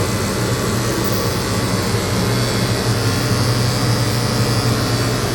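Electric dog grooming clippers with a #10 blade running steadily with a low buzz, cutting matted hair off a dog's ear.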